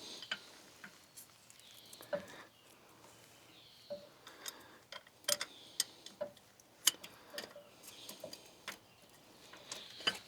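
Scattered light clicks and taps of hand tools and metal parts being handled while fitting an EGR valve and its pipe on a tractor engine, irregular and a few a second.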